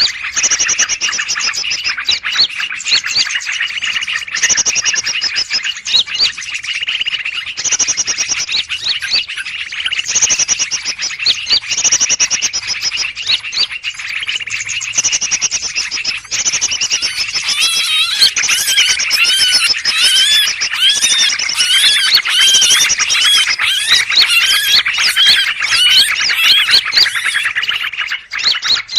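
Bird-lure recording of a noisy commotion of many birds chattering and calling, the 'burung ribut' sound played to draw in greater green leafbirds. Fast warbling notes that swoop up and down come in about 17 seconds in and run over the chatter.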